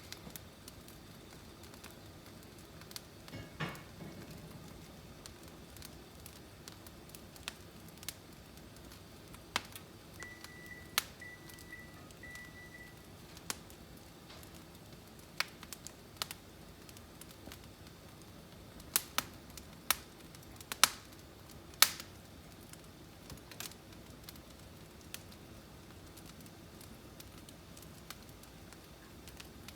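Firewood burning in a fireplace: crackling, with sharp pops scattered throughout and a cluster of loud pops about 19 to 22 seconds in. A duller low thump comes about 4 seconds in.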